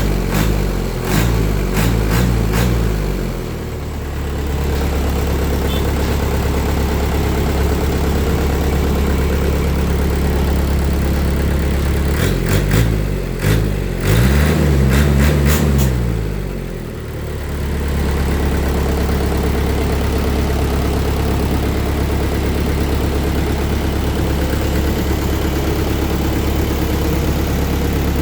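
Mitsubishi PS120 single-cylinder diesel engine running fast, then dropping to a steady idle about three seconds in. Around the middle it is briefly revved up and falls back, then it settles to a steady idle again.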